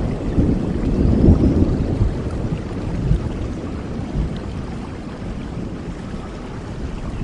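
Steady rainfall with a low rolling rumble of thunder that fades away over the first few seconds, leaving the even hiss of rain.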